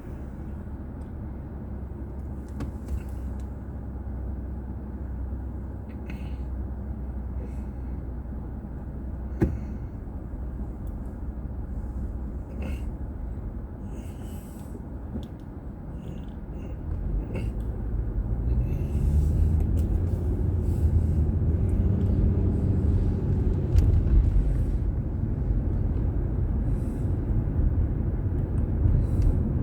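Car driving in traffic, with a steady low road and engine rumble and one sharp click about a third of the way in. A little past halfway the sound grows louder, with an engine note rising and then levelling off, as the car speeds up.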